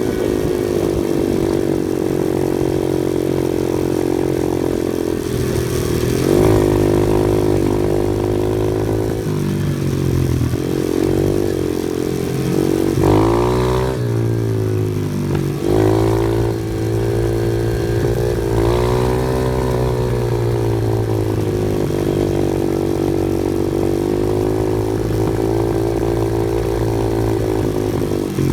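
Off-road vehicle engine running under load on a trail, its revs dropping and rising again several times, with a sharp rev-up about halfway through.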